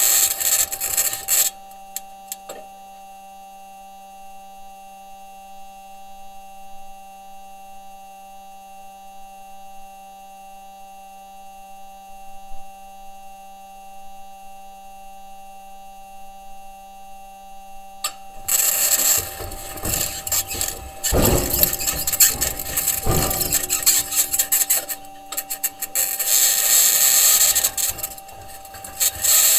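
Perseverance Mars rover's wheels and suspension grinding and scraping over the crater floor. The grinding is loud for the first second and a half, drops away to a steady electrical hum for about seventeen seconds, then comes back loud and uneven from about eighteen seconds in.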